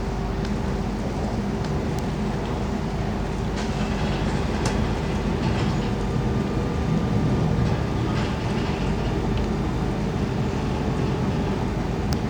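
RER A MI 09 electric multiple unit running at speed, heard from inside the train: a steady rumble with a constant traction-motor hum and a few sharp clicks from the wheels on the track.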